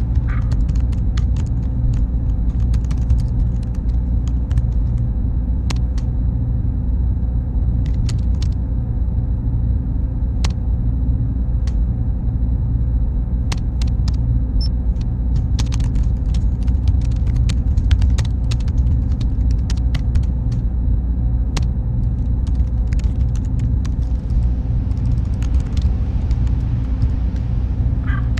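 Server-room ambience: a steady machine and fan rumble, with a thin high tone that drops out about 23 seconds in and scattered sharp clicks throughout.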